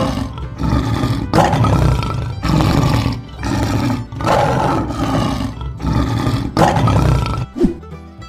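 Lion roar sound effect: a run of about six roars, each about a second long with short gaps between, stopping shortly before the end.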